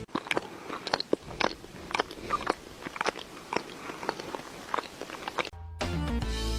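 An animal chewing something hard and crunchy close to the microphone, with many irregular crunches. It cuts off near the end and music starts.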